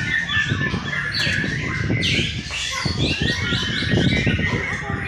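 Several white-rumped shamas (murai batu) singing at once: a dense overlap of rapid whistled phrases, quick falling sweeps and chirps, with no pause.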